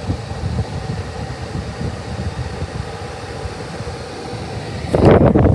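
Steady low rumble inside a 2022 Mitsubishi Outlander's cabin, with the climate-control fan blowing. About five seconds in, a much louder rushing noise cuts in suddenly.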